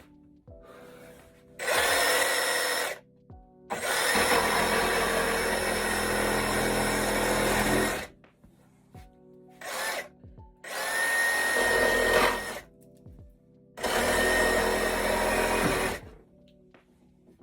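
A handheld power tool running in four bursts of one to four seconds each, with a steady high whine, stopping between bursts. Faint background music plays underneath.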